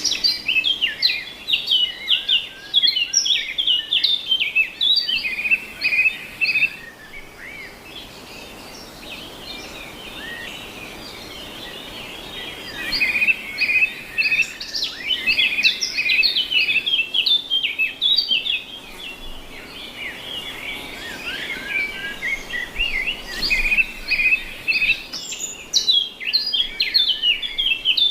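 Birds chirping and singing in quick, overlapping high notes, thinning out to a few calls for a stretch about seven seconds in before picking up again.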